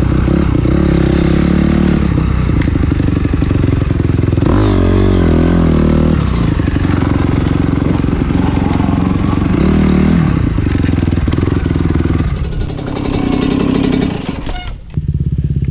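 Dirt bike engine running under way, revving up about four to five seconds in and again near ten seconds, then briefly easing off near the end.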